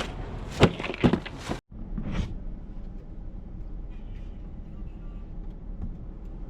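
A couple of sharp knocks, then, after a brief cut, a car's steady low road and engine noise while driving.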